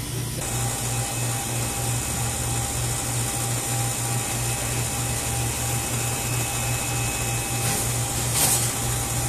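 Newly installed walk-in cooler compressor running after a replacement and refrigerant charge, the system cooling again. It makes a steady low hum that pulses about three to four times a second, with a brief hiss near the end.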